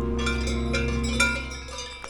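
Several cowbells on grazing cows clanking irregularly at different pitches. A steady low held music note fades out under them near the end.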